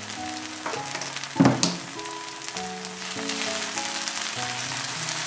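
Sliced long green onions and dried shrimp sizzling in olive oil in a frying pan as they are stir-fried with a spatula, with one brief loud clatter about a second and a half in.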